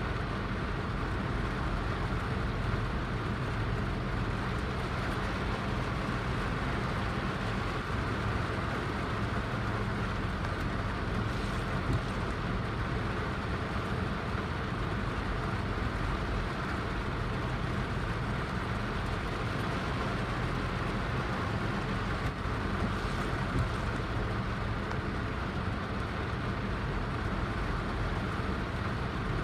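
Heavy rain falling in a steady, unbroken wash.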